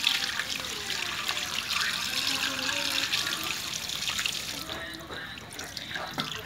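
Water running from a tap, a steady splashing hiss that drops away about two-thirds of the way through, with faint voices in the background.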